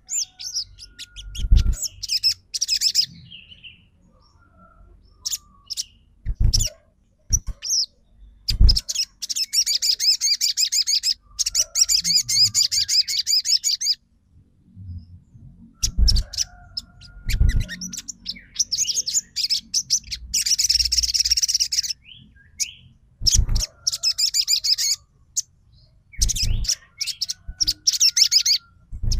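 Crimson sunbird (sogon) singing a fast, high-pitched chattering trill in bursts of a few seconds with pauses between. Several dull low thumps are heard among them.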